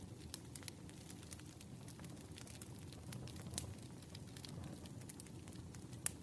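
Wood fire crackling: a steady low flutter of flames with irregular sharp pops and snaps of burning logs, one louder pop near the end.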